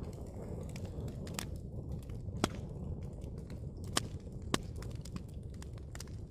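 Wood fire burning with a low steady rumble and scattered sharp crackles and pops, three of them louder, about two and a half, four and four and a half seconds in.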